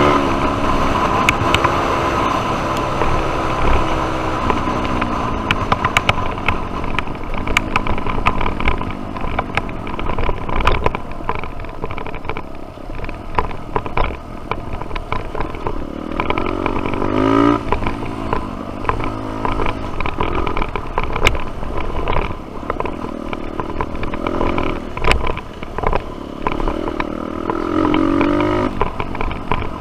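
Dirt bike engine running on a trail ride, its pitch rising and falling as the throttle is worked, with repeated sharp clatter and knocks from the bike over rough ground.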